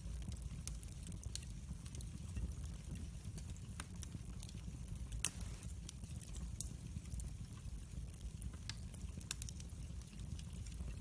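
Wood fire crackling, with scattered sharp pops over a low rumble; the loudest pop comes about five seconds in.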